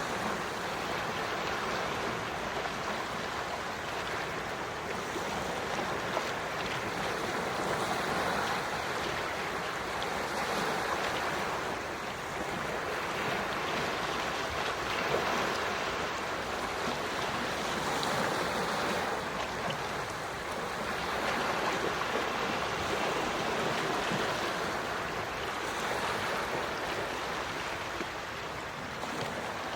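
Quiet sea waves washing gently onto the shore, a steady wash that swells and eases every few seconds.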